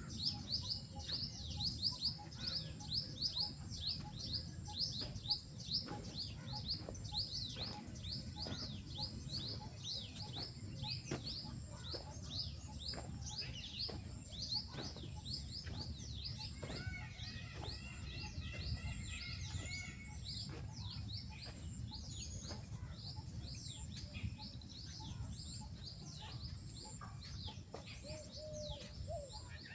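Small birds chirping: a fast, continuous run of short high chirps, joined by a second bird's series of lower, steadier notes about two-thirds of the way through, over a low background rumble.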